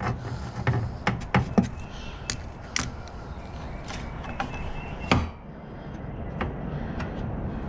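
Adjustable wrench clicking and knocking as it is worked on and taken off a freshly tightened fitting under a riding mower's frame: a dozen or so irregular sharp clicks, with one louder knock about five seconds in.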